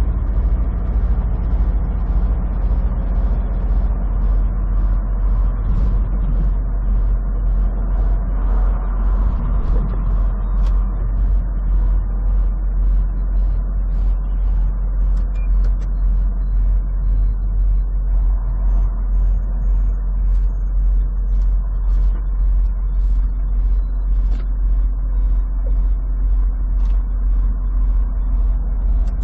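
Semi truck driving at road speed, heard from inside the cab: a steady low rumble of engine and road noise that pulses evenly about twice a second.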